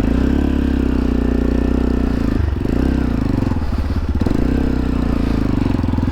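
Single-cylinder dirt bike engine running under way at a fairly steady speed, with brief dips in engine speed about two and a half and four seconds in, and wind rushing over the microphone.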